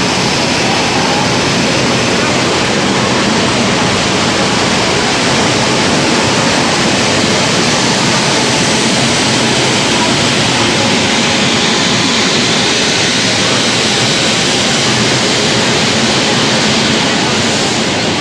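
A moving train's loud, steady rushing noise of wheels and air, with no distinct clicks or horn.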